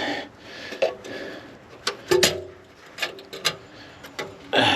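A handful of separate sharp clicks and knocks as tools and parts are handled, with a short pitched squeak about two seconds in.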